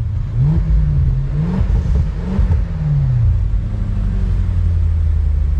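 Range Rover's 4.4-litre V8 through a QuickSilver Sound Architect valved exhaust, revved in a few quick blips that rise and fall, then settling to a steady idle about three seconds in.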